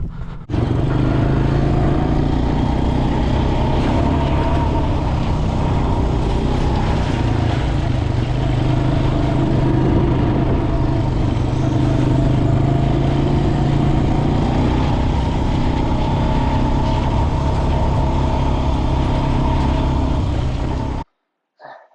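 Four-wheeler (ATV) engine running steadily while being ridden down a dirt road, holding a fairly even pitch, then cutting off abruptly near the end.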